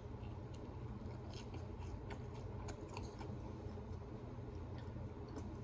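Mouth sounds of a person biting into and chewing a slice of greasy pepperoni pizza close to the microphone: scattered soft wet clicks and smacks over a steady low hum.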